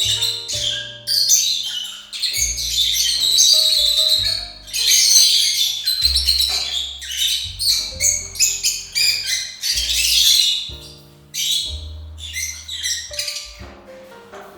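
Lovebirds chattering and screeching in shrill, rapid bursts over background music with a steady bass line.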